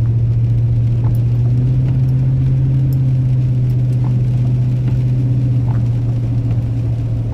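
Vehicle cabin noise while driving: a steady, loud low drone of engine and road noise.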